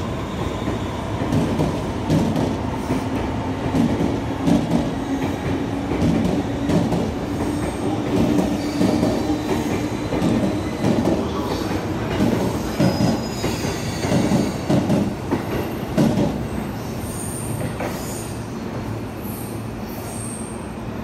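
Electric passenger train pulling out past a platform: a steady rumble and hum with repeated wheel clacks over the rails. Brief high-pitched wheel squeals come near the end, as the sound drops a little.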